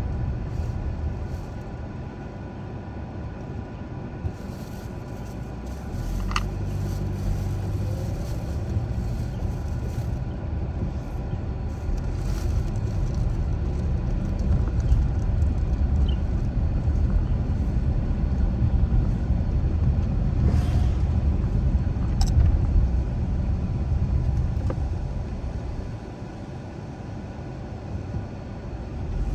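A car driving along a residential street, with a steady low rumble of road and engine noise. It gets louder about six seconds in and eases off near the end.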